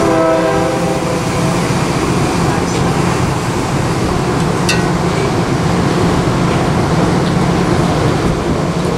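A train horn sounds a chord that cuts off about a second in. After it comes the steady rumble of the passenger train as its stainless-steel cars start to creep forward, with a brief high squeak about halfway through.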